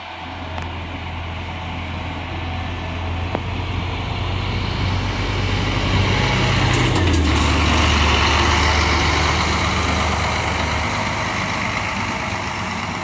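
Scania K440 coach's diesel engine running, growing louder to a peak about eight seconds in and then easing off. Its low engine note steps up about three seconds in and drops about seven seconds in.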